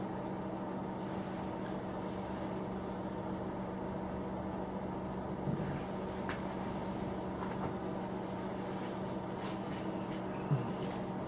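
A small heater running with a steady hum at one constant pitch. A couple of brief, light knocks come through it, one about halfway and one near the end.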